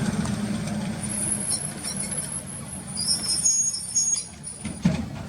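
A road vehicle, likely a truck, passing by, its low engine rumble fading away. High, thin squeaky notes come and go over it from about one to four seconds in.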